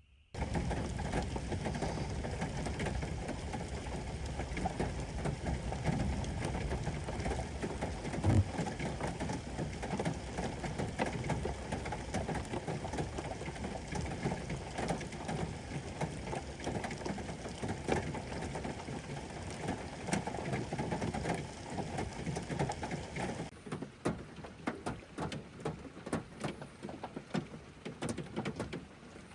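Steady rain falling, a dense patter of drops, with one brief louder knock about eight seconds in. Near the end it turns to a lighter patter of separate drops.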